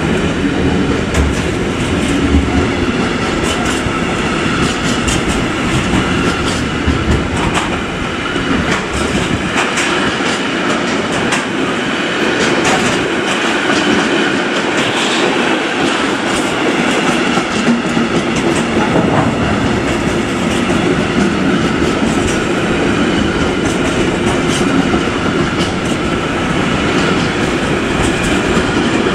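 Freight train of tank containers on container flat wagons rolling past close by, its wheels clicking steadily over rail joints above a continuous rolling rumble. The deep rumble thins out for several seconds in the middle.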